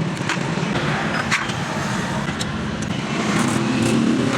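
Honda CD 70 motorcycle's 70 cc single-cylinder four-stroke engine running steadily, with a few sharp clicks heard over it.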